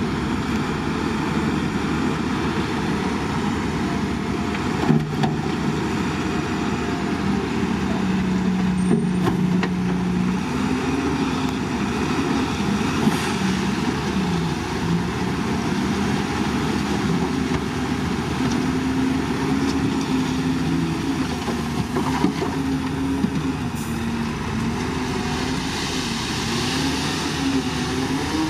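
Heavy diesel engine of earthmoving machinery working steadily, its pitch rising and falling with load, with a few short metallic knocks.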